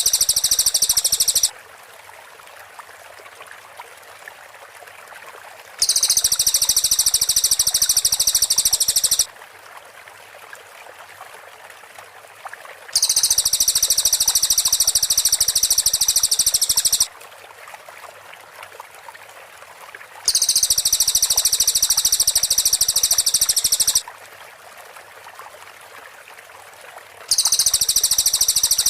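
Cililin bird song: loud, very high-pitched, rapid-fire trills in bursts of about three and a half seconds, repeating about every seven seconds with a soft hiss between them.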